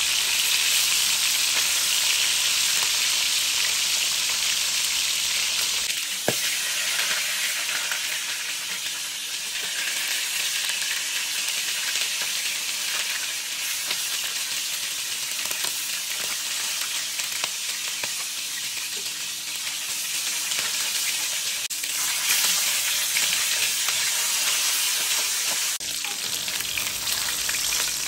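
Chicken thighs sizzling steadily in hot oil in a wok, with steel tongs turning the pieces and a sharp tap about six seconds in.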